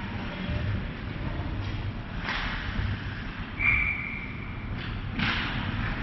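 Ice hockey play in a rink: a few short, sharp scrapes and knocks of skates, sticks and puck on the ice, with a referee's whistle blown once, a steady high tone for about a second in the middle, over a constant low rink rumble.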